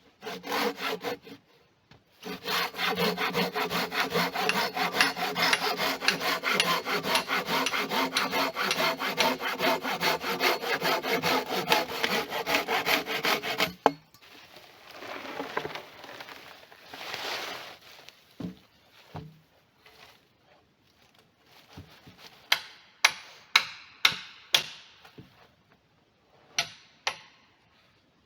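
Hand saw cutting wood in fast, even strokes for about twelve seconds, with a ringing tone from the blade, then stopping abruptly. After a pause with some quieter scraping, several sharp knocks come near the end.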